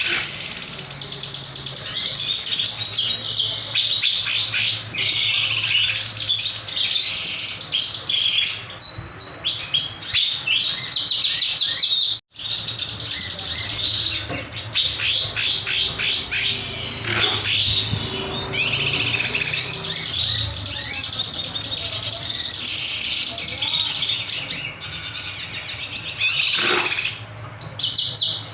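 Kinoy songbird in full song, a non-stop stream of rapid, sharp, high chattering notes and trills. The song drops out for an instant about twelve seconds in.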